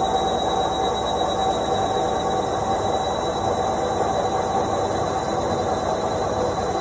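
Indesit washing machine on its spin cycle, the drum spinning at a steady speed: an even rush of noise with a constant whine over it.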